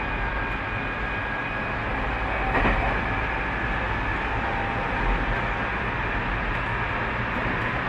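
Tobu 30000 series electric train running, heard from inside the car. Steady rail and wheel rumble under a faint, steady motor tone, with a brief louder rush about a third of the way in.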